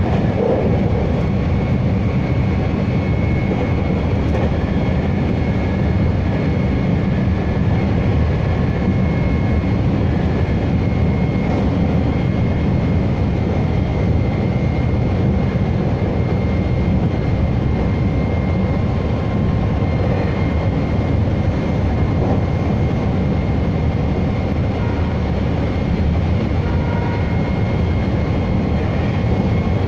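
Meitetsu 3150 series electric train running at speed, heard from inside the car: a steady low rumble of wheels on rail and running gear, with a faint high whine that comes and goes.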